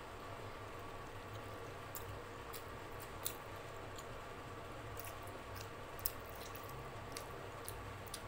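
Close-up chewing of a mouthful of food: soft wet chewing with scattered sharp mouth clicks, two of them louder, about three and six seconds in, over a steady low hum.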